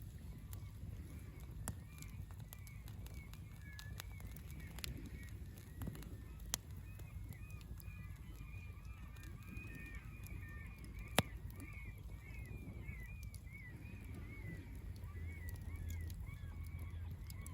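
A flock of birds keeps up a chatter of many short calls, busiest in the middle, over a steady low rumble. A campfire gives a few sharp pops, the loudest about eleven seconds in.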